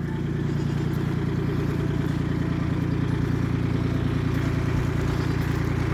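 A vehicle engine idling steadily, a low, even hum with a regular pulse.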